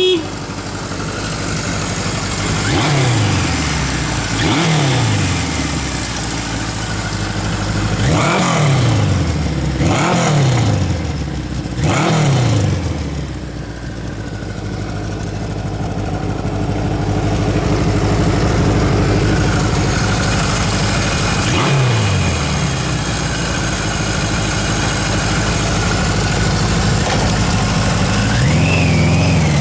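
Kawasaki KZ1000A's air-cooled inline-four engine idling, its throttle blipped about six times, the revs falling back to a steady idle after each, with another rise in revs near the end.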